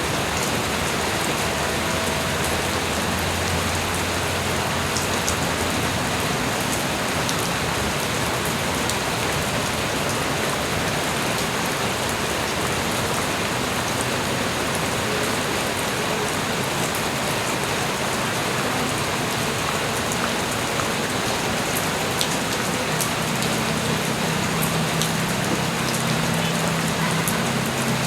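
Steady light rain falling, a dense even hiss with many small drops ticking on surfaces.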